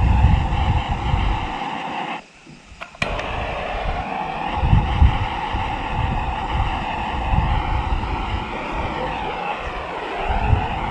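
A steady engine drone with wind buffeting the microphone in gusts. The sound briefly drops out about two seconds in.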